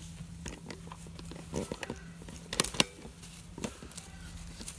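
Cow eating: irregular crunching and chewing clicks, with two sharp cracks close together about two and a half seconds in.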